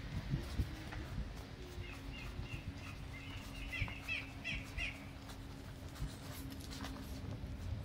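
Small birds chirping in two runs of short, quick, falling chirps, the second run in the middle louder. Underneath are a low steady hum and the soft thuds of footsteps on a dirt path.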